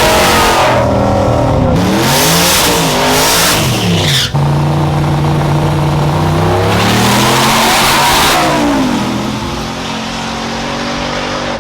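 A race vehicle's engine revving hard, its pitch swinging up and down, with a sudden brief cut about four seconds in; it then holds high before falling away and fading near the end.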